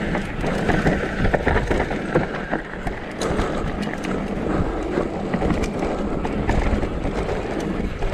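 Downhill mountain bike (Trek Session) rolling fast down a dirt trail: tyre noise over dirt and rocks with a steady run of rattles and clacks from the bike, and wind on the microphone.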